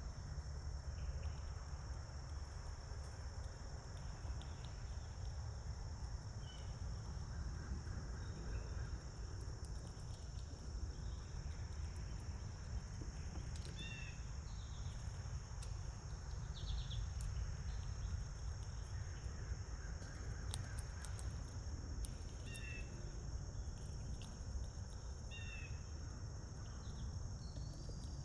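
Steady high-pitched trilling of crickets, with short chirps from small birds every few seconds, over a low background rumble.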